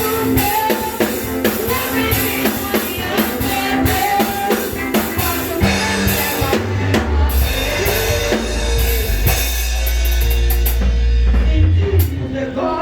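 Live church band music: a drum kit keeps a steady beat under a melody. Later a deep bass note is held while the drums fall away, as the music winds down.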